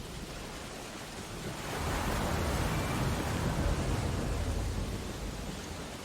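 Steady hiss of rain on window glass, with a deep rumbling swell that builds about two seconds in and fades again about three seconds later.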